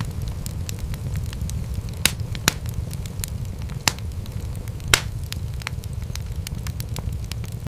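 Wood fire crackling over a steady low rumble of flames, with many small snaps and a few louder pops, the loudest about five seconds in.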